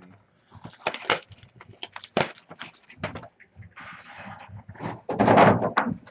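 Trading-card packs and cards being handled: a run of light clicks and ticks, then two rustling, crinkling tears, the louder one about five seconds in.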